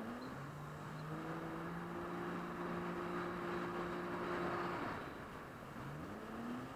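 Jet ski engine running at a steady pitch over a rush of wind and water, easing off about five seconds in, then revving up again near the end.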